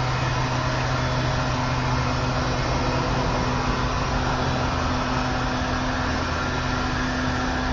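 A steady mechanical hum with a constant airy hiss, unchanging throughout.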